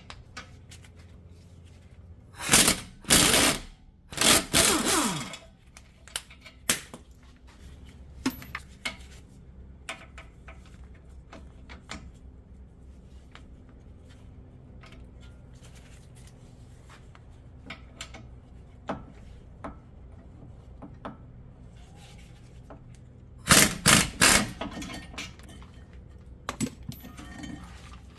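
An impact wrench run in short bursts, undoing the 21 mm brake caliper bracket bolts: two bursts a few seconds in and a cluster of bursts near the end. Small metallic clinks of tools and parts between them.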